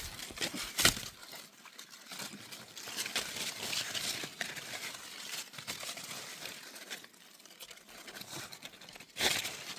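Close, irregular rustling and crinkling, with a sharp snap about a second in and another near the end; the rustling is busiest early and grows quieter later.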